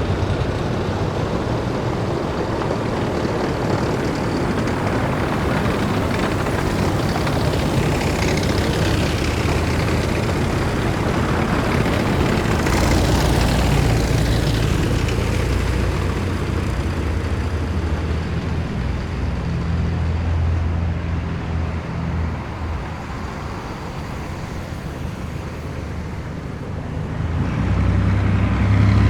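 Heavy military vehicles driving past in a column, their engines running under load, with a falling whine as one passes about halfway through and another coming up louder near the end.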